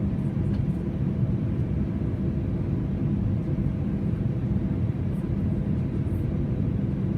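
Steady cabin noise inside an Airbus A320: a low, even rumble of the engines and airflow with a few steady low hums.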